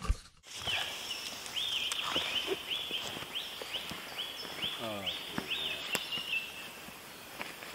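A woodland bird singing a run of about ten repeated, slurred whistled notes, over quiet outdoor background, with a short low human vocal sound near the middle.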